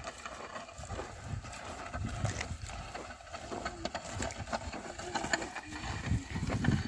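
Oxen working a plough: irregular hoof thuds and scattered knocks, growing louder near the end.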